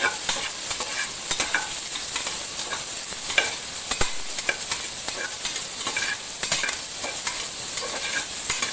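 Chopped onions, green chillies and whole spices sizzling in hot oil in an aluminium pressure cooker, with a spoon stirring and clicking irregularly against the pot.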